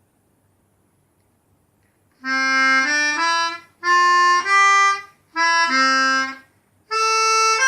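Pianica (melodica) playing a simple tune in short phrases of a few notes each, separated by brief pauses, starting about two seconds in after a silence.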